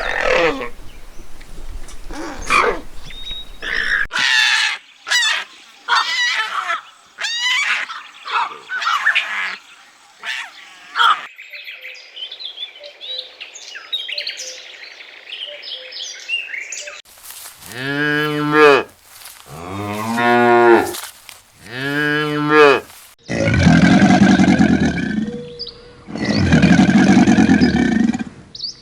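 A run of farm animal calls in separate clips: short, higher calls repeated over the first several seconds, then a series of long, pitched cattle moos, each one about two seconds long, in the second half.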